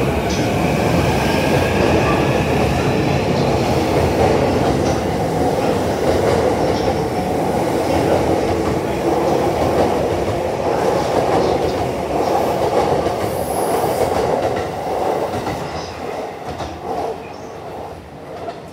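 JR East E233 series electric commuter train accelerating out of the station close by, with a loud, continuous rumble and clatter of wheels on rail. A faint rising motor whine sounds in the first few seconds, and the noise fades over the last few seconds as the train pulls away.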